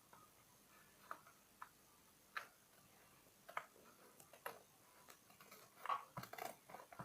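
Near silence broken by faint, scattered clicks and snips of scissors opening a toy set's packaging, a few more toward the end.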